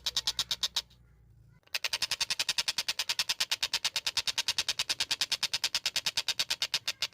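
Tengkek buto kingfisher calling a fast, even rattle of high, sharp notes, about nine a second, like a running train. The rattle breaks off for under a second about a second in, then resumes.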